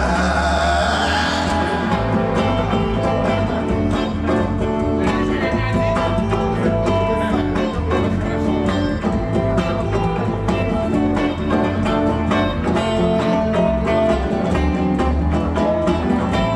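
Instrumental passage on acoustic guitar and violin: the guitar strummed in an even rhythm while the violin holds long notes above it.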